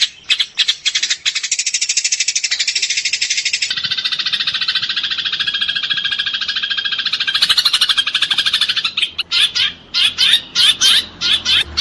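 Eurasian tree sparrows chattering in fast, dense runs of chirps, the agitated chatter of sparrows fighting. Near the end it breaks into separate sharp chirps.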